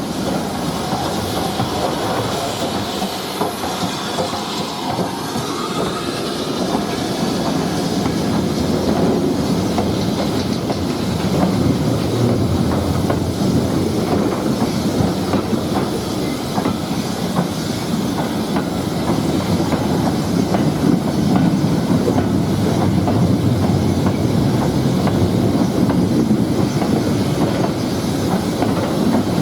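Heritage railway train running steadily along the line, its wheels clattering over the rail joints with some wheel squeal, growing a little louder as it goes.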